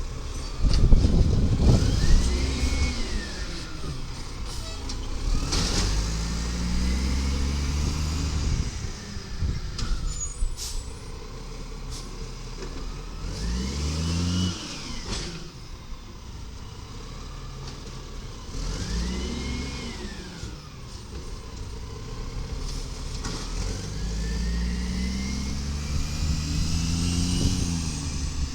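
Automated side-loader garbage truck's diesel engine revving up and falling back again five times, about every five to six seconds, with air-brake hisses and sharp knocks, the loudest about a second in.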